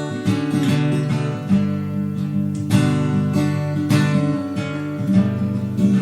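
Acoustic guitar strumming chords, the instrumental introduction to a song before the singing starts.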